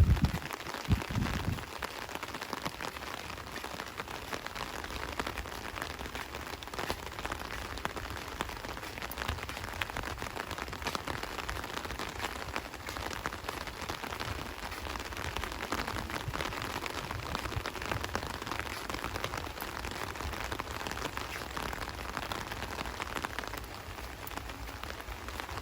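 Steady rain falling, a dense patter of drops hitting surfaces. Two low thumps come in the first second or so.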